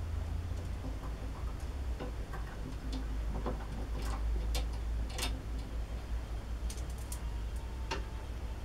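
Irregular light metallic clicks and taps of lathe parts being handled and fitted, over a steady low hum.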